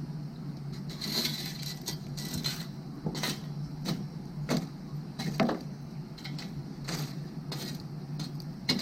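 Burning firewood crackling, with irregular sharp pops and snaps scattered through, over a steady chorus of frogs calling behind.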